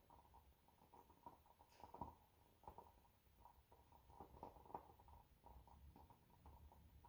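Near silence: faint room tone with soft, scattered small taps and rustles.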